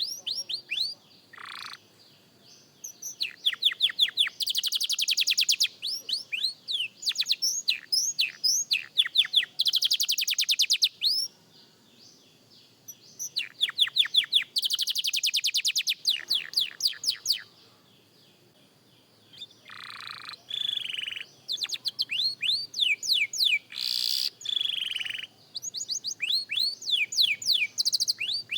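Young domestic canary singing practice song: phrases of very fast rattling trills and runs of quick falling whistled notes, a few seconds each, broken by short pauses.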